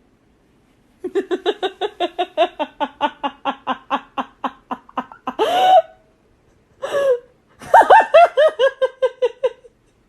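A person laughing hard in quick repeated 'ha' pulses, about five a second for some four seconds, then a short rising squeal and a second fit of laughter near the end.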